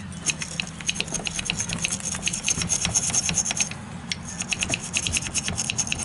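A bristle brush scrubbing the metal float bowl of a single-barrel carburetor, wet with chem dip, in quick back-and-forth strokes, with a brief pause just before four seconds in.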